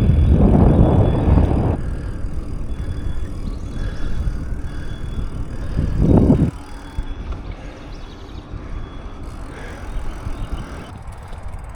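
Wind buffeting the microphone of a camera on a moving bicycle, a low rumbling noise. It is loudest in the first two seconds, rises again briefly about six seconds in, and is quieter in between.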